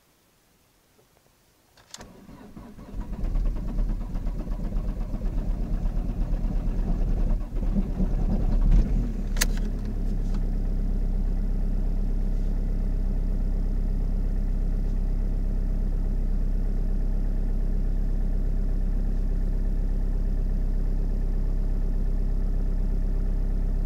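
Ford Focus Mk1 1.8 TDCi diesel engine cold-started at minus 13 °C on an old battery. It is cranked about two seconds in, catches within about a second, and runs rough and uneven for several seconds, with a sharp click near the end of that stretch. It then settles into a steady idle.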